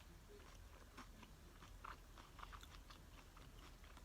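Faint close-up chewing of nachos: scattered soft crunches and wet mouth clicks.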